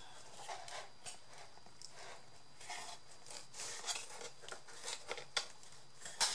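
Paper and card pieces being handled, with light rustling and scraping and a couple of sharp clicks near the end.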